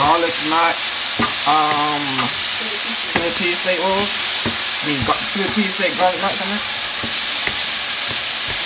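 Diced onion and bell pepper sizzling in oil in a stainless steel skillet while a wooden spatula stirs and scrapes them around the pan. A steady frying hiss, with wavering pitched sounds coming and going over it.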